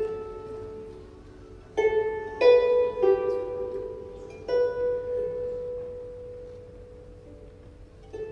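A plucked string instrument playing a slow phrase of a few single notes, each left to ring, the last note sustaining and fading away over a few seconds.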